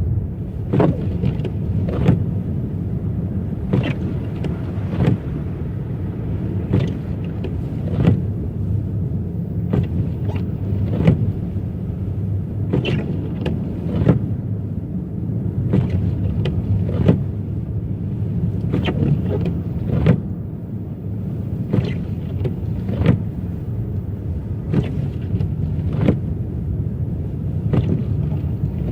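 A car driving on a rough, snowy road at night, heard from inside the cabin: a steady low road and engine rumble with a sharp knock roughly every second or two.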